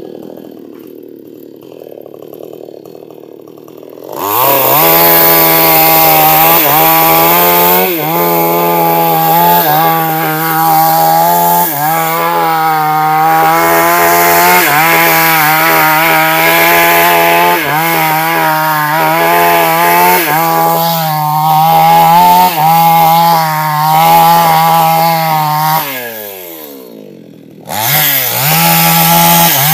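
New West chainsaw at full throttle cutting into a large sengon trunk, starting about four seconds in after a quieter stretch, its pitch dipping briefly now and then under the load of the cut. Near the end it winds down toward idle, then revs up again.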